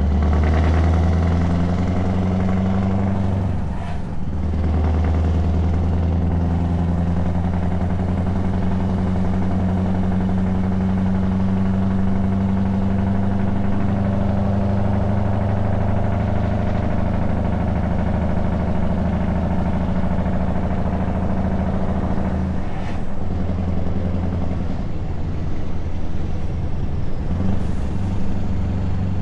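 Scania S truck engine running under way through open, unfiltered exhaust pipes: a loud, steady low drone whose note breaks off briefly twice, once about four seconds in and again about two-thirds of the way through.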